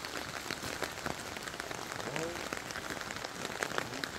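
Steady rain falling, with many small drop hits throughout. A brief faint voice-like sound comes about two seconds in.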